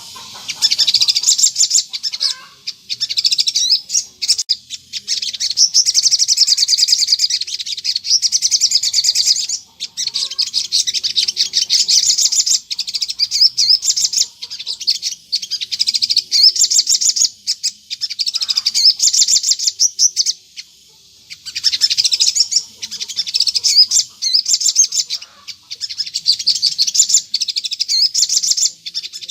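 Sogon songbird singing continuously: rapid, high chattering trills in runs of a few seconds, broken by short pauses. This is the bird's busy full song, used as a lure call to draw wild sogon into answering.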